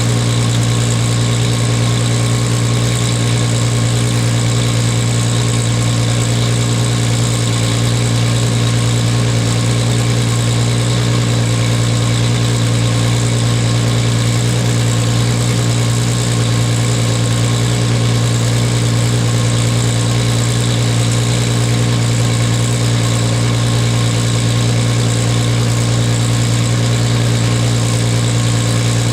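1998 Toyota Supra Turbo's straight-six running through an HKS titanium racing exhaust with the silencer fitted, idling steadily with a deep, even note and no revs.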